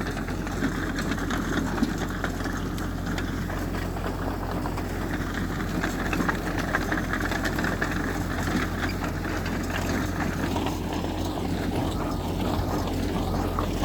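Heavy construction machine's diesel engine running steadily, with a constant low hum.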